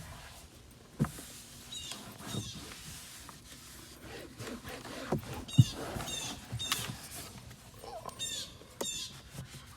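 Small birds chirping in short repeated phrases several times, over soft rubbing and a few sharp knocks from a towel wiping the car's interior surfaces.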